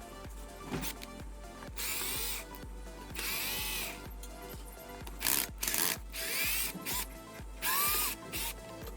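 A handheld power tool running in about six short bursts, its motor speeding up and slowing down each time, over background music with a steady beat.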